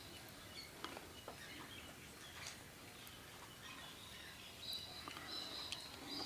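Faint, scattered high bird chirps over quiet outdoor background noise, with a brief held high note about two-thirds of the way through.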